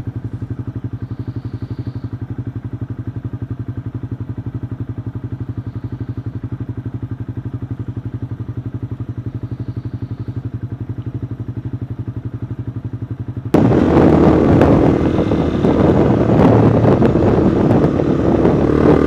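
Motorcycle engine idling with a steady, even throb. About thirteen seconds in it switches suddenly to the much louder sound of the bike riding, engine running under load with wind rushing over the microphone.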